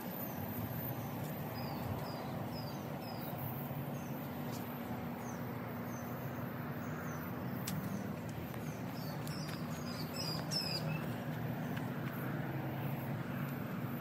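A small bird chirping in short runs of quick, high chirps, three times, over a steady low hum of background noise.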